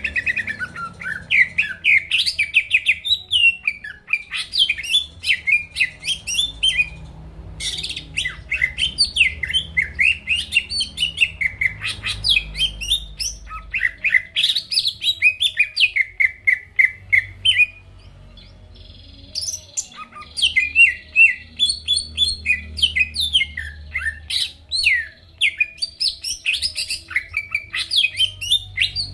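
A cucak ijo (green leafbird) singing a fast, varied warbling song of rapid whistled and chirped notes. It comes in three long phrases with brief pauses about a third and two thirds of the way through.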